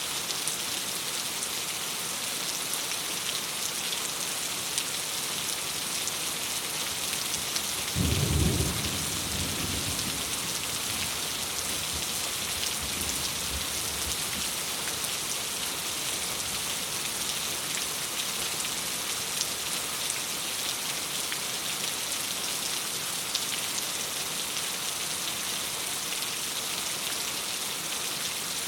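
Steady rain with a low rumble of thunder about eight seconds in, fading out over several seconds.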